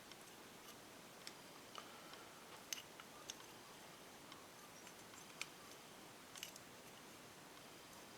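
Faint, irregular light clicks and taps of small carburettor parts and hand tools being handled, about a dozen over the stretch, with near silence between them.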